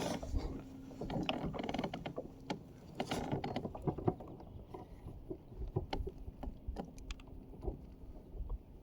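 Irregular clicks, knocks and rattles of gear being handled aboard a kayak, busiest in the first few seconds and thinning out afterwards.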